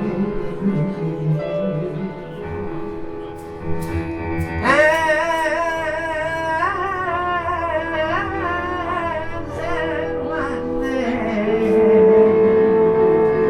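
Live jazz trio of piano, tabla and French horn playing an instrumental passage between sung lines. Quiet accompaniment opens it; about four and a half seconds in, a strong wavering lead melody enters, and a louder held note comes near the end.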